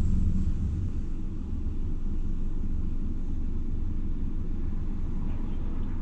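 Steady low rumble of road and engine noise from a BMW 1 Series (F20) hatchback being driven.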